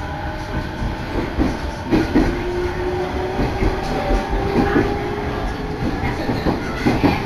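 Electric train heard from inside the carriage as it gathers speed: a steady running rumble with irregular clacks of the wheels over rail joints and a faint motor whine that rises slowly in pitch.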